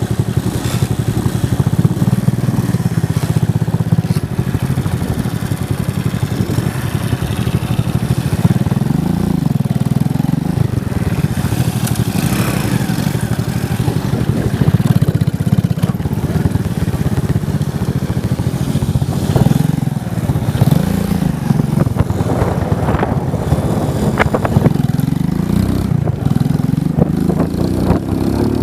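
Motorcycle engine running while riding, its pitch rising and falling over and over as it speeds up and eases off.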